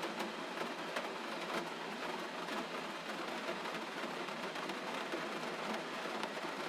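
Gentle rain falling steadily: an even hiss dotted with frequent small drop ticks.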